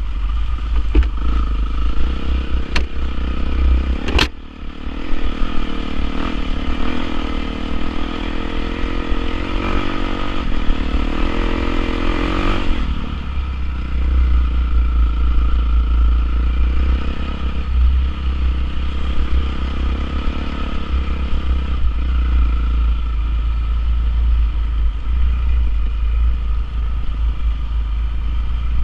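Honda CRF450R dirt bike's single-cylinder four-stroke engine running under riding, its pitch rising and falling between about five and thirteen seconds in, then steadier. A sharp knock comes about four seconds in, and there is a heavy low rumble.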